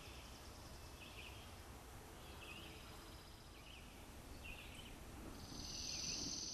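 Faint wilderness ambience over a low hiss: a bird chirps in short calls about once a second, and a high steady buzzing note comes in near the end.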